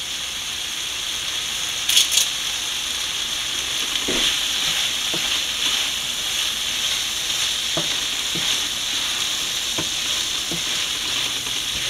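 Chilli squid with capsicum and tomato sizzling steadily in a ceramic-coated frying pan, cooked down nearly dry with fresh curry leaves just added, while a wooden spatula stirs it. A few light knocks of the spatula against the pan come through the sizzle.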